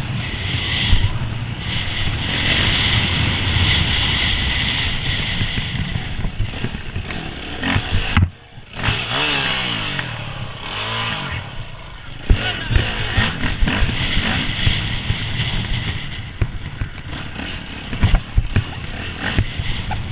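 Hercules enduro motorcycle being ridden off-road, its engine revving up and down, with clattering knocks from the bike over rough ground. The sound dips briefly about eight seconds in.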